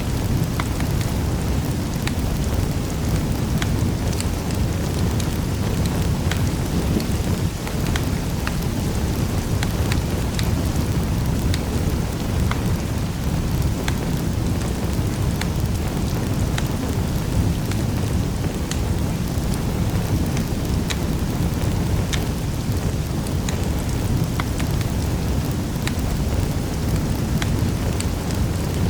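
Wood fire burning in a fireplace: a steady low rumble of flames with many sharp crackles and pops scattered through it.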